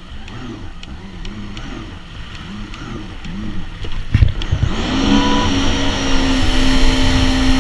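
Jet ski engine at low revs, its pitch rising and falling repeatedly. About four seconds in there is a knock, then the engine climbs to a steady higher note and grows louder as the craft accelerates.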